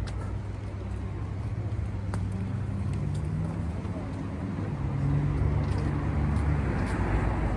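Street traffic: a motor vehicle's engine running close by, its hum rising slightly in pitch twice and growing louder about five seconds in, over general road noise.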